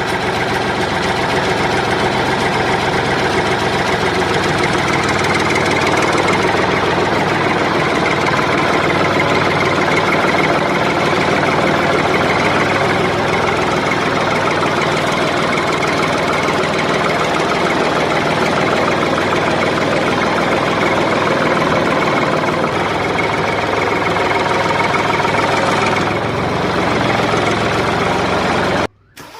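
Heavy truck diesel engine running steadily with a knocking clatter; the sound shifts slightly about 26 seconds in and cuts out briefly just before the end.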